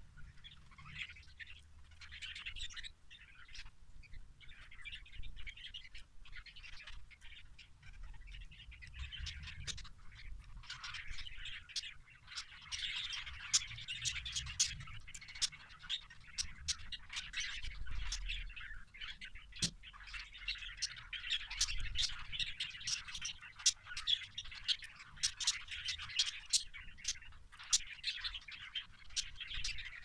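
Small cage birds chirping and twittering in a continuous chatter of many short, sharp calls, growing busier and louder about halfway through.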